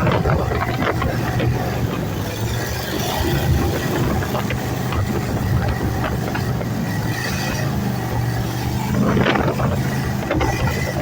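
Jet boat's 454 V8 engine running steadily under way, with water and wind noise over it.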